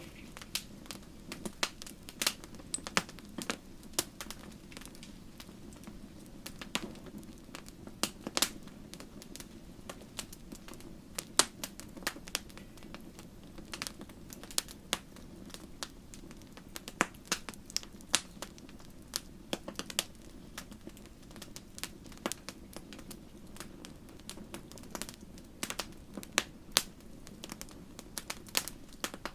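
Wood fire crackling in a fireplace: irregular sharp pops and snaps over a steady low hiss of the flames.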